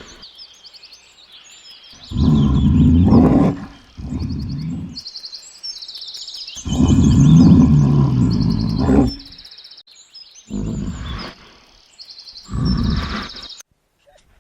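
A large animal roaring repeatedly, with two long deep roars and several shorter ones, while birds chirp in the background.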